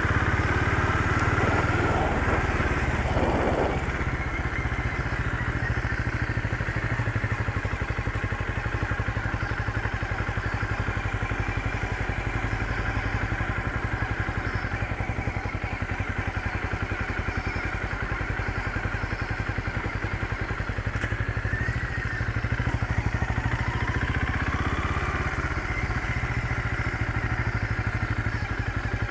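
Motorcycle engine running steadily, a little louder for the first few seconds and again past the middle.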